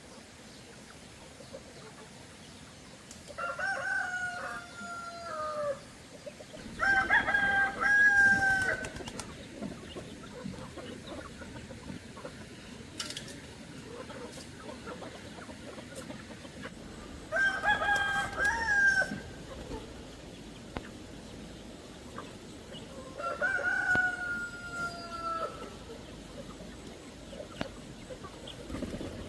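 Rooster crowing four times, each crow about two seconds long and falling in pitch at the end, with long gaps between.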